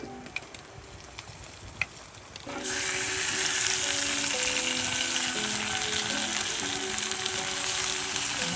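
Food going into hot oil in a pan: a few light clicks, then a loud sizzle that starts suddenly about two and a half seconds in and keeps going.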